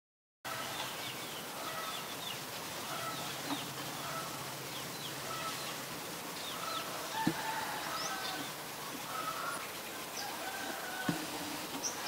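Several birds calling: many short chirps, quick falling calls and brief whistled notes, with two sharp clicks in the second half. The sound cuts in abruptly about half a second in.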